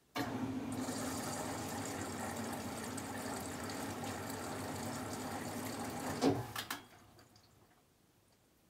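AEG Lavamat 1400 washing machine taking in water: the inlet valve opens suddenly and water rushes in steadily for about six seconds, then cuts off with a couple of knocks.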